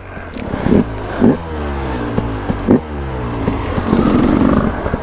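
Dirt bike engine being ridden hard: the throttle is blipped in short rev bursts a few times, with the pitch falling away after each.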